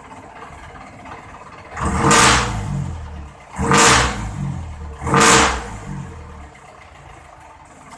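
Diesel jeepney engine idling through a new all-stainless-steel muffler, revved hard three times about a second and a half apart, each rev rising and falling back to idle.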